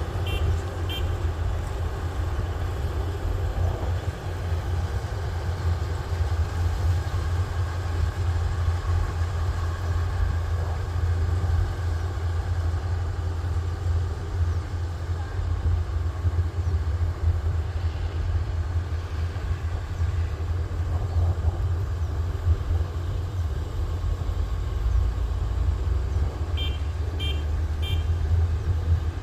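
Kubota rice combine harvester's diesel engine running steadily with a low drone. Short electronic beeps sound twice at the start and three times near the end.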